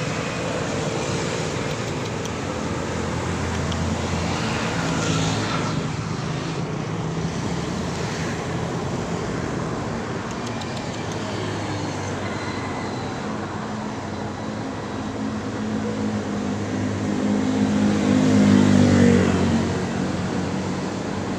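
Road traffic: motor vehicle engines running steadily. Near the end a vehicle passes close, growing louder and then dropping in pitch as it goes by.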